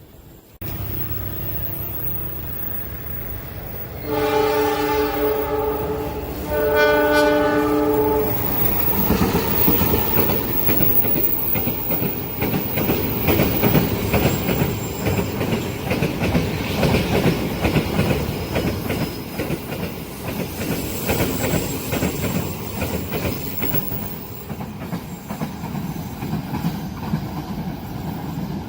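A train's locomotive horn sounding two blasts of about two seconds each as the train nears a level crossing, warning of its approach; then the long train passes with a steady rumble and clickety-clack of wheels over the rail joints.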